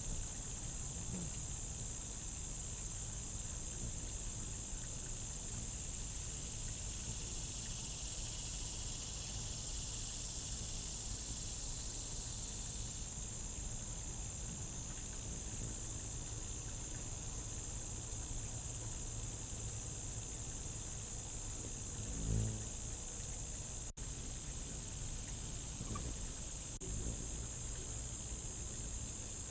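Steady late-summer insect chorus, a constant high-pitched chirring with a low rumble beneath. About three quarters of the way through, a brief low hum swells and fades.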